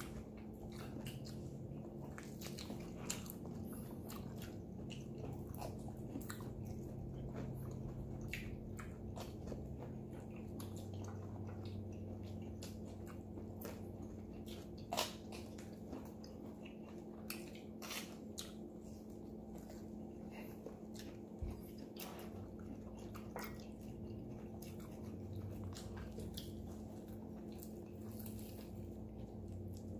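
Close-up chewing and biting of roasted Cornish hen, with scattered short wet mouth clicks and smacks. Under it runs a steady low hum.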